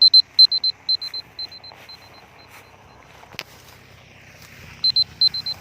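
Electronic beeper sounding short beeps at one high pitch in quick groups of three. The beeps fade over the first few seconds and come back loud near the end, with a single sharp click about three and a half seconds in.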